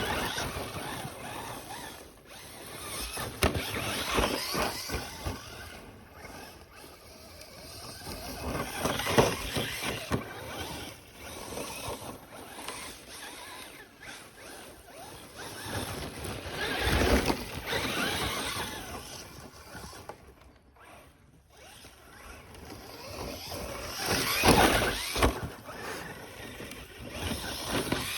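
Traxxas Slash 4x4 Ultimate RC short-course truck driving off-road, its electric motor whining and tyres churning on the ground. It grows loud and fades again about five times, as if running close and then away, with a quieter lull about three quarters of the way through.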